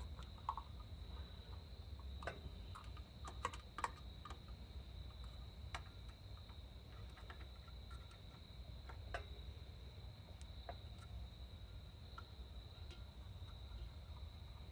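Faint scattered clicks and light knocks of hands handling wires and small parts at a workbench, most frequent in the first few seconds, over a steady high-pitched drone and a low hum.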